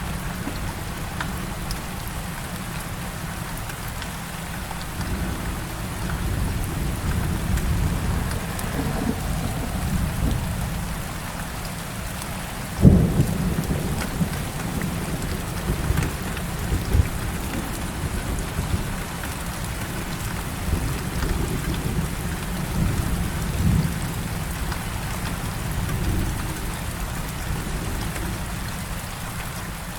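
Heavy rain falling steadily, with thunder rumbling low underneath. A sharp thunderclap comes a little before halfway, followed by more rolling rumbles.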